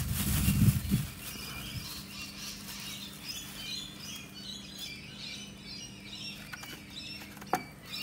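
Birds chirping in the background, many short high chirps in quick runs, over a faint steady hum. A low rumble in the first second, and a single click near the end.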